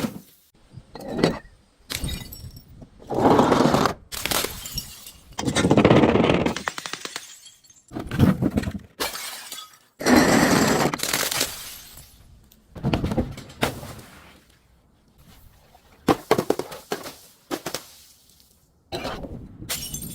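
Glass bottles breaking and being crushed: a series of crashes and crunching bursts, some brief and some lasting a second or two, with short pauses between them.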